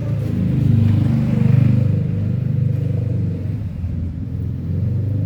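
A motor running with a steady low rumble, a little louder in the first two seconds.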